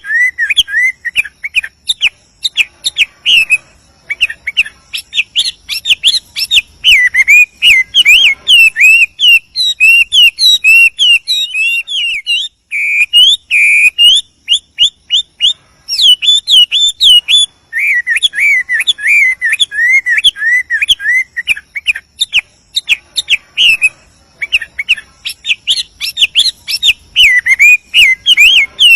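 Chinese hwamei singing a loud, continuous song of rapid, varied whistled phrases that swoop up and down, with a few brief pauses.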